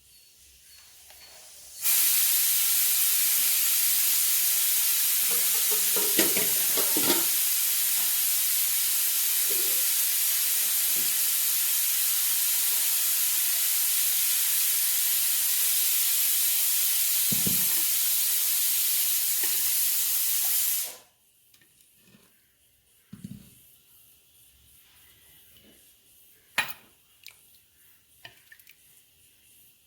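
Loud, steady hiss that starts abruptly about two seconds in and cuts off suddenly about twenty seconds later. After it stops, a few soft clicks and rustles of eating can be heard.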